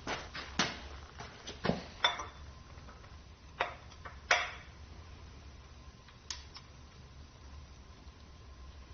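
Metal parts and hand tools clinking and knocking on a Ford 351 Windsor short block being torn down: a handful of sharp metallic clinks in the first four and a half seconds, the loudest about four seconds in, and one more a little after six seconds.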